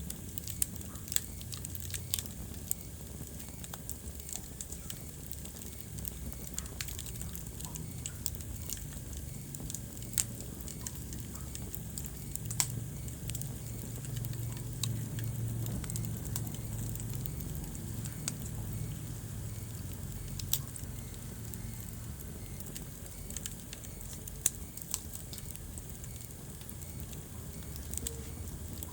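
Wood fire burning in a fireplace, crackling with scattered sharp pops over a steady low rumble that swells a little midway.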